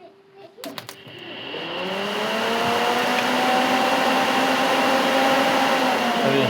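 Car electric cooling fan, wired directly to a 12-volt battery, spinning up after a few clicks. Its motor whine rises over about a second and a half, then holds steady at full speed under a loud, even rush of air.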